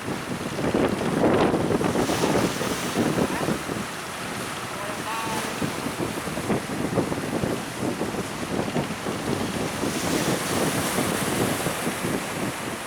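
Strong wind buffeting the microphone over rough sea and breaking waves, rising and falling in gusts.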